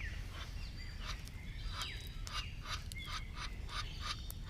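Birds calling: a run of short, sharp notes, about three a second, with thin high chirps over them.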